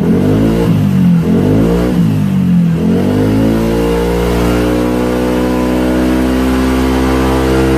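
Yamaha Aerox 155 scooter's single-cylinder engine revved through an aftermarket exhaust: about three quick throttle blips that rise and fall, then about three seconds in it revs up and holds steady at high revs.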